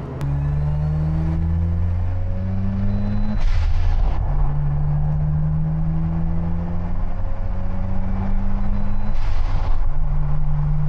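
Mazda RX-7 FC3S turbocharged rotary engine heard from inside the cabin, pulling up through the gears. Its pitch climbs, falls at an upshift about three and a half seconds in, climbs again and falls at a second shift near nine and a half seconds, with a short hiss at each shift.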